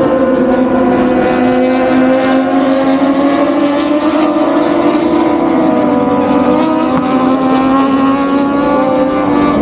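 Loud, steady engine drone holding nearly one pitch, wavering only slightly.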